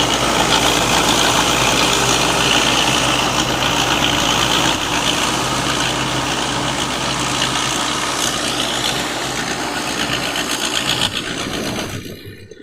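Combine harvester with a 6M61 diesel engine running steadily under load, a dense mechanical noise over a low engine hum. It drops away sharply near the end.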